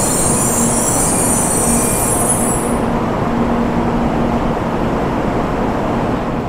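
Shinkansen bullet train running past at low speed over a steady rumble, with a high-pitched squeal that fades out about three seconds in.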